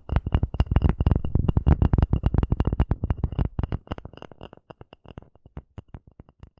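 Wooden cup coaster being scratched: rapid scratching strokes that thin out to scattered ticks after about four seconds.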